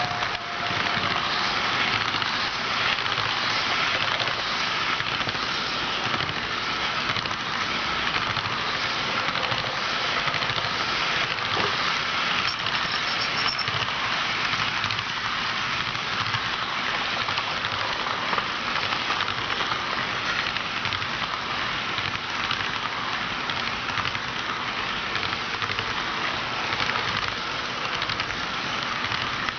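HO scale model train running along the track: a steady rolling clatter of metal wheels on the rails, with the locomotive's motor underneath.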